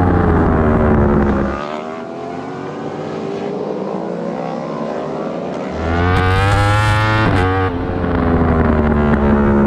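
Yamaha R1 inline-four race bike engine heard onboard. It runs hard, then goes off the throttle about a second and a half in, with its pitch climbing slowly through the corner. It comes back on the throttle about six seconds in, revs up, and shifts quickly through gears near the end.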